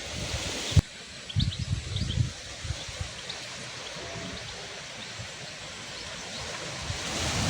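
Wind through garden foliage, a steady rustling hiss with gusts buffeting the microphone in the first couple of seconds and again near the end, and a few faint, short bird chirps.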